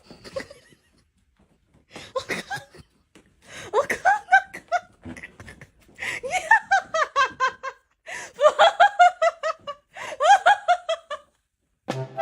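A person laughing in several bouts of rapid, pitched 'ha-ha' pulses with short pauses between them.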